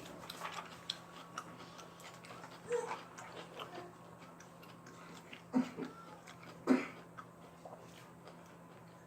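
Close-miked eating sounds: chewing and mouth clicks while eating KFC fried chicken, with three louder smacks, about three, five and a half and six and a half seconds in.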